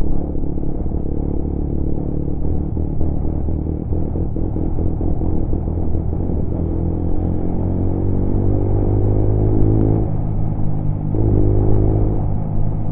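Lexmoto Assault 125cc motorcycle engine under way, with a rough, crackling note over the first several seconds. It then accelerates with the pitch rising, drops at a gear change about ten seconds in, and climbs again.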